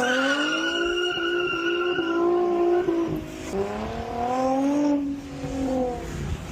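Drift car engine revving hard and held high, with tyres squealing. The revs dip about three and a half seconds in, climb again, then fall away near the end.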